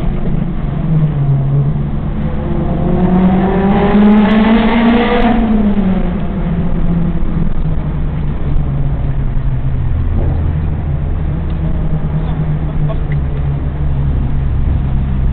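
Honda S2000 four-cylinder running through a Skunk2 cat-back exhaust, Megan Racing header and test pipe, echoing in a tunnel. It drones steadily. About three seconds in it revs up, the pitch climbing for a couple of seconds, then drops back to a steady low drone.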